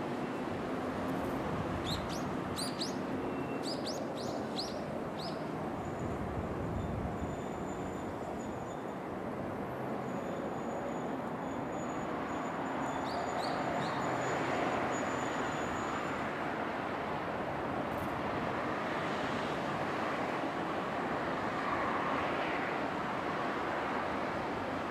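Yokkaichi Asunarou Railway 762 mm narrow-gauge train creeping into the terminus, with a steady running noise throughout. A small bird chirps in quick runs over the first few seconds and briefly again about halfway through.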